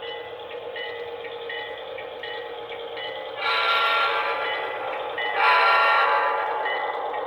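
HO scale model diesel locomotive's sound decoder sounding two long horn blasts through its small speaker, over its steady running engine sound. The first blast starts about three and a half seconds in, the second about two seconds later.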